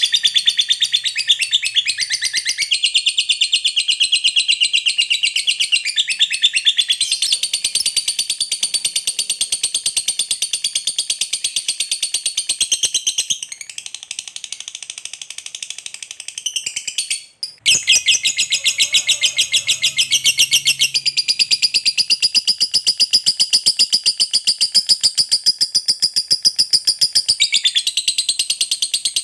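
Lovebird singing a long ngekek: a rapid, high-pitched chattering trill run on almost without pause. It goes softer for a few seconds past the middle, breaks off for a moment, then resumes at full strength.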